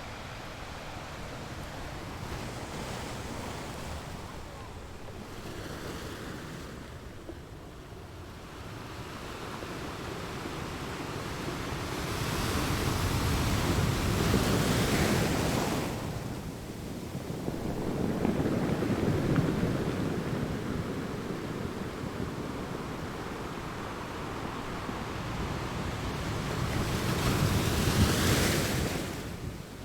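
Sea waves breaking and washing on the shore in slow swells. Three bigger waves surge and fall back: one near the middle, one soon after, and one near the end.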